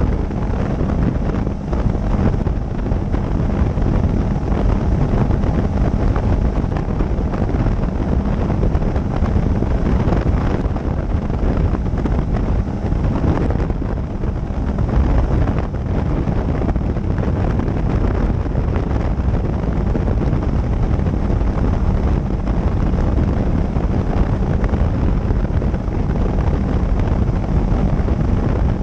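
Motorcycle riding at speed, its engine and road noise buried under steady wind rushing over the camera's microphone.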